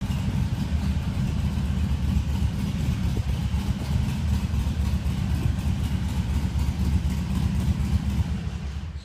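Motorcycle engine idling steadily, a fast low pulsing that fades out near the end.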